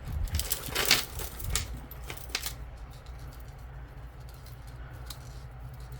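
Jewelry being handled: light clicks and clinks of a knotted metal necklace chain in the fingers, bunched in the first two and a half seconds with the sharpest about a second in, then only a low steady hum.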